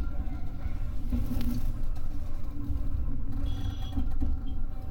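Electric commuter train running on the JR Nara Line, heard from on board: a steady low rumble of wheels on rail. A brief high squeal comes a little past three seconds in, with a few shorter chirps after it.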